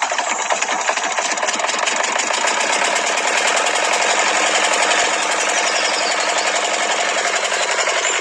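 A small motor running steadily with a fast, even rattle, which stops abruptly near the end.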